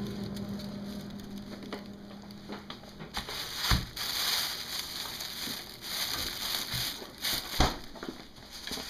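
Crackling, rustling handling noise from a frozen cake being turned over, with a few sharp knocks, one about four seconds in and two more near the end.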